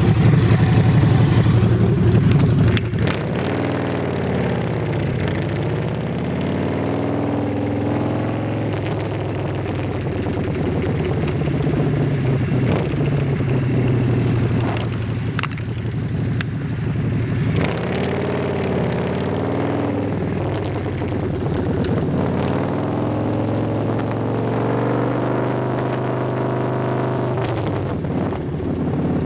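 Vehicle engine running under way, its pitch rising and falling several times as it revs up and eases off, with wind rushing over the microphone, loudest in the first couple of seconds.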